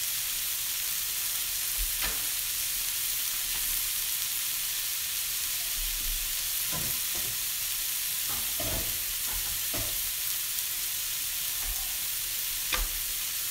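Broccoli frying in a hot wok on a gas stove, a steady high sizzle with a few faint pops now and then.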